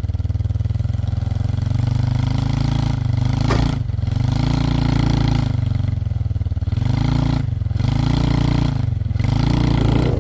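A vehicle engine revving up and falling back again and again, a surge about every second and a half, as the vehicle is rocked back and forth to get it moving; a sharp click about three and a half seconds in.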